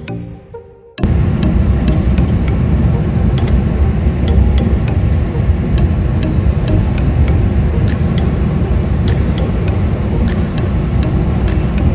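A moving vehicle's steady running noise: a loud, even rumble with scattered sharp clicks that starts suddenly about a second in, just as music fades out.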